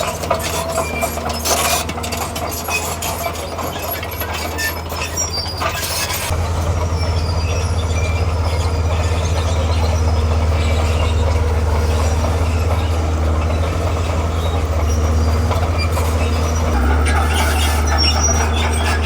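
Crawler bulldozer's diesel engine running under load, with its steel tracks clanking and squealing. The engine note rises about six seconds in and steps up again near the end.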